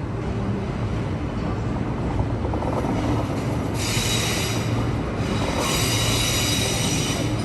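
Queensland Rail electric suburban train running through the platform over a steady low hum, its wheels squealing in two high-pitched stretches, the first about four seconds in and the second starting a little over a second later.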